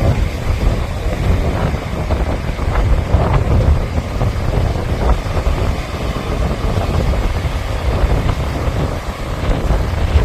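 Gusty wind buffeting the microphone with a heavy rumble, over the wash of sea waves on the shore.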